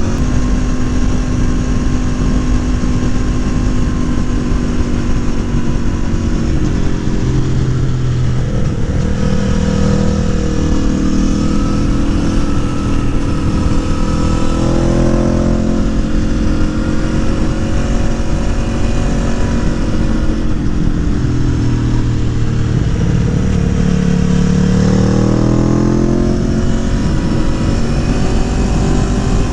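Aprilia Tuono's V4 engine, tuned with a Gabro Racing Stage 3 kit, running under way as the rider works the throttle. The engine note rises and falls, climbing clearly in short accelerations about halfway through and again near the end.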